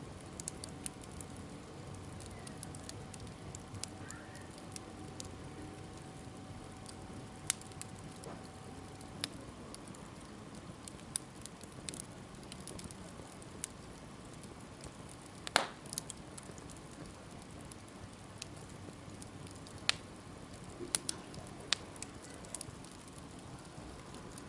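Wood bonfire crackling over a low steady hiss, with scattered sharp pops; the loudest pop comes about two-thirds of the way through, and several more come close together near the end.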